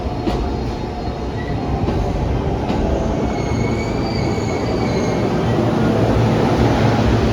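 E231-500 series electric commuter train moving along a station platform with a heavy steady rumble. A few sharp clicks come in the first three seconds, and a wavering high wheel squeal sounds for about two seconds around the middle.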